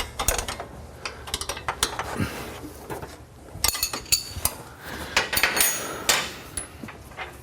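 Metal hand tools clinking, knocking and clanking against each other and on the car's suspension parts, with several ringing metal clanks in the middle and later part.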